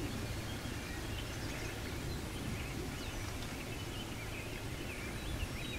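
Birds chirping faintly, with short calls scattered throughout, over a low steady rumble of outdoor background noise.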